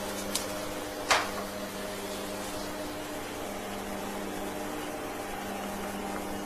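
Plastic tube sealing machine running with a steady hum, with a sharp mechanical click about a second in.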